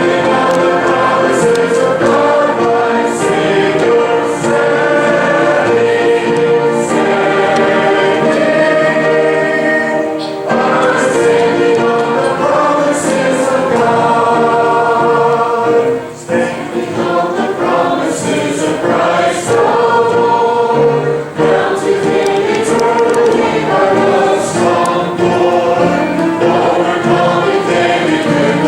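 A choir singing a Christian worship song, with held notes and short breaths between phrases.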